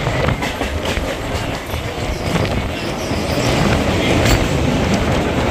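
Mumbai suburban local train running at speed, heard from its open doorway: wheels rumbling on the rails with scattered rail-joint clicks and wind. The noise grows louder about three and a half seconds in as the train runs onto a steel truss bridge.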